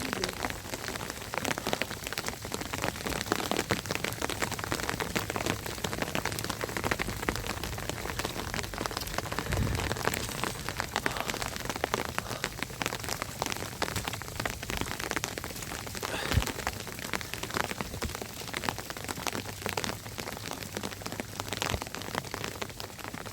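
Heavy rain falling steadily, a dense hiss thick with individual drop impacts. Two brief low thumps come about ten and sixteen seconds in.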